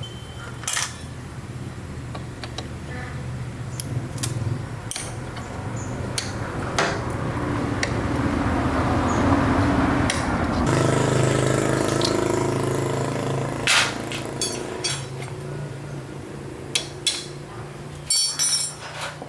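A motorbike's four-stroke engine running, fading away after a few seconds and briefly back later, with metal tools clinking and knocking, several knocks bunched near the end.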